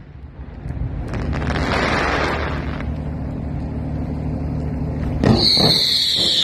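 Fireworks display: a steady low rumble, then sharp bangs about five seconds in, followed by a high whistle that slowly falls in pitch.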